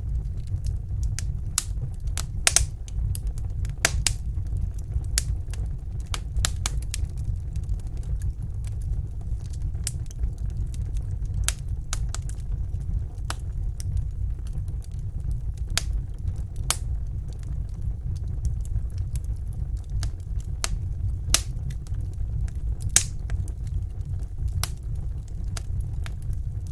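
Wood fire burning in a fireplace: irregular sharp crackles and pops over a steady low rumble, with a few louder pops.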